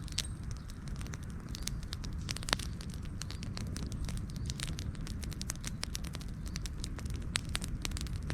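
Wood fire crackling with many sharp pops over a steady low rumble; the loudest pop comes about two and a half seconds in.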